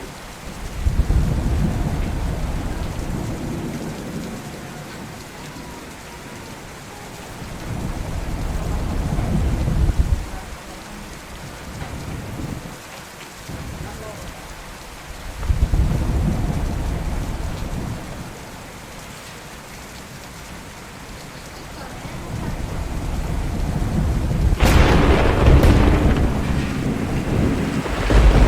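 Steady rain with repeated rolls of thunder: a deep rumble about a second in, another building to a sudden stop at about ten seconds, one at about sixteen seconds, and a long roll building from about twenty-two seconds. Near the end, a sharp thunderclap cracks, the loudest sound.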